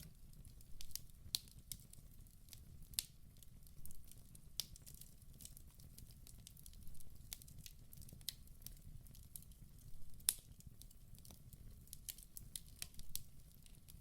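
Wood fire burning inside a fireplace: irregular sharp crackles and pops over a low steady rumble, with a louder pop about ten seconds in.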